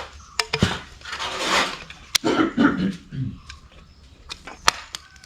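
Small metal parts of a spray pump being handled: scattered sharp clicks and taps, with a brief vocal noise like a throat clearing about two seconds in.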